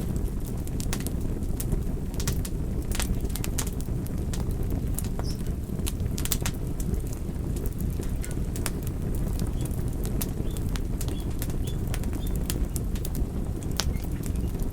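Wood fire burning, with a steady low rumble and frequent sharp crackles and pops.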